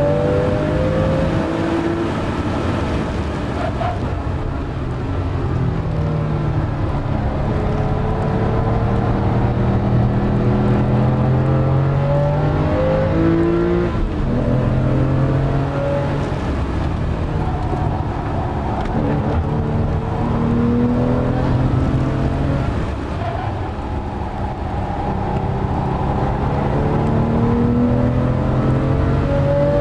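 Porsche 997 Carrera S's 3.8-litre flat-six engine heard from inside the cabin under hard driving, rising in pitch as it pulls through each gear and dropping back at the shifts, again and again, over steady road and tyre noise.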